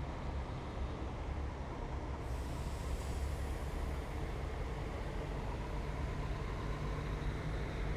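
Heavy military vehicles in a parade column driving past: a steady deep engine rumble with road noise, and a high hiss that comes in about two seconds in.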